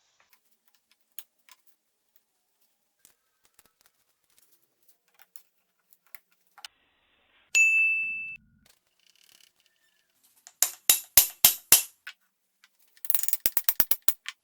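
Steel being struck in a workshop: one ringing ding about halfway through, then a run of about six sharp metal blows. Near the end comes a faster, rattling run of about ten strikes in a second.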